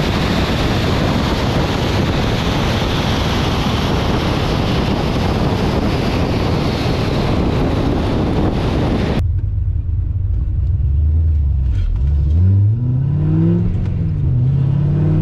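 A steady rushing noise as a car drives along the track; about nine seconds in it cuts sharply to the inside of a supercharged C6 Corvette Grand Sport, its V8 rising in pitch as it accelerates, dipping briefly and climbing again.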